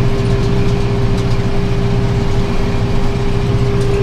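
Tractor engine running steadily while driving a round baler that is taking in hay, with a steady whine held over the engine rumble.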